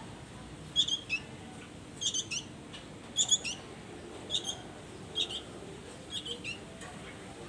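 A songbird calling: short groups of two or three high, quick chirps, repeated about once a second.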